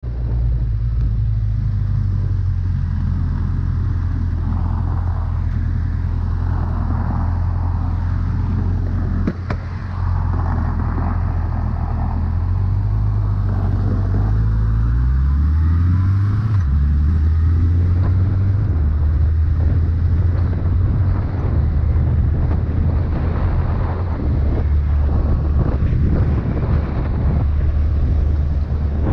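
Motorcycle engine running while riding in traffic, with wind noise over the microphone. About halfway through the engine pitch rises steadily for a couple of seconds, then drops suddenly.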